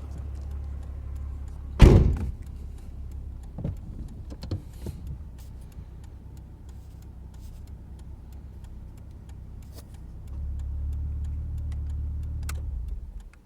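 A car door shutting with one sharp knock about two seconds in, followed by a few lighter clicks and knocks, over a steady low rumble that grows louder for the last few seconds and then cuts off suddenly.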